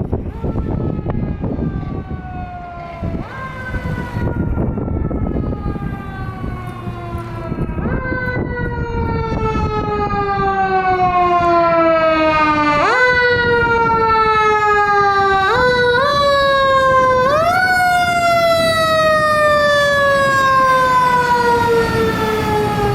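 Siren of a new Seagrave fire engine answering an emergency call: one wailing tone that slides slowly down in pitch and is pushed sharply back up about five times, over a low rumble from the truck. It grows louder partway through and stays loud.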